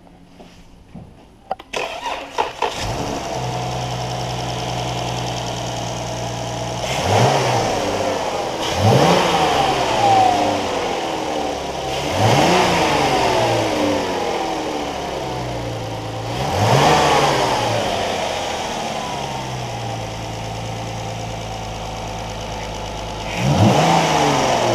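A 2017 Chrysler 300's 3.6L V6 engine starting after a few clicks, then idling steadily. It is revved five times, each rev rising in pitch and falling back to idle.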